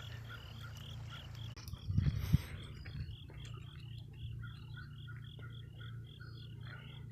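A chorus of frogs calling: short high calls repeating evenly, about three a second, with a second lower-pitched series of calls joining in. A brief loud rumbling noise breaks in about two seconds in.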